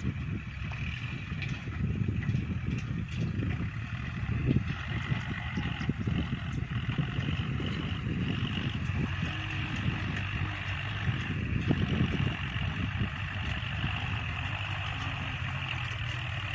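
Kubota tractor diesel engine running steadily under load while pushing soil.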